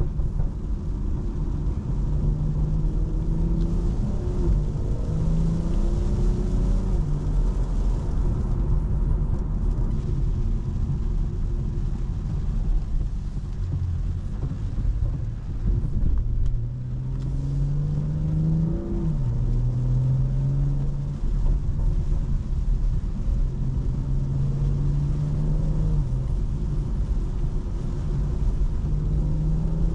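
Stage 2 tuned BMW M340i's turbocharged 3.0-litre inline-six under way, its engine note climbing under acceleration and dropping sharply at each upshift, several times over, over a low road rumble.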